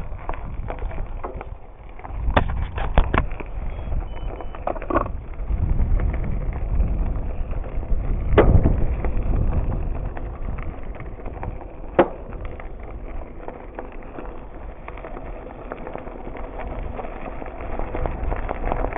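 Bicycle ride sound: steady wind and rolling rumble on the microphone, with a quick run of sharp clacks a few seconds in and single knocks near the middle and about two-thirds through, as the bike rattles over bumps.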